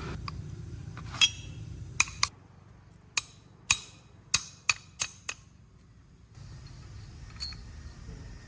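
Metal striking metal: about nine sharp taps and clinks, a few ringing briefly, over a low steady hum that drops away for a few seconds in the middle.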